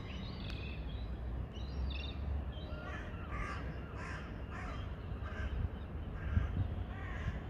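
A bird giving a series of about eight short calls, roughly two a second, starting about three seconds in, over a steady low rumble.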